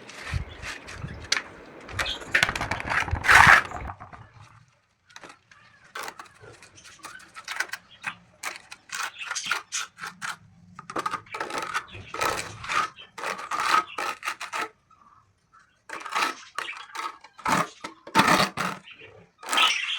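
Irregular scraping and tapping in short bouts as cement is worked into small holes in a bird-room wall.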